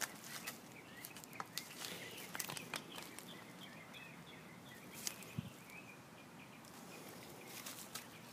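Faint outdoor ambience with a bird chirping in the background, scattered light clicks and taps, and a soft low thump about five seconds in.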